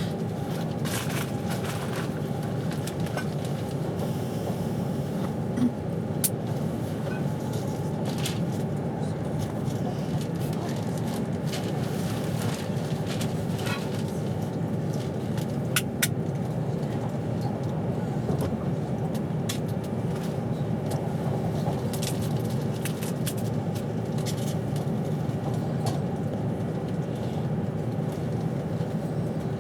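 Inside a moving passenger train carriage: a steady low rumble from the running train with a constant hum, and scattered sharp clicks and ticks throughout.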